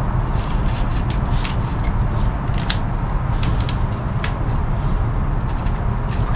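A steady low rumble, with faint, scattered ticks and rustles of bankline cord being worked through a lashing on a wooden frame.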